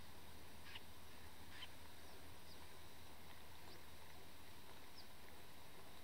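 Faint, short, high bird calls, a handful of quick single notes about a second apart, the first two the clearest.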